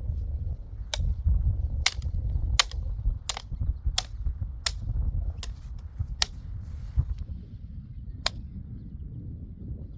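A series of sharp knocks, about one every three-quarters of a second, stopping a little over eight seconds in, over a steady low rumble.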